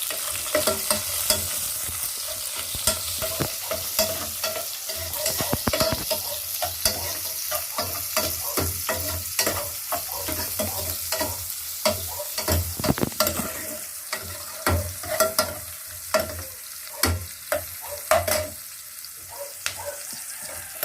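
Garlic and onion sautéing in hot cooking oil, sizzling steadily, while a spatula stirs them and knocks against the pan many times at irregular intervals.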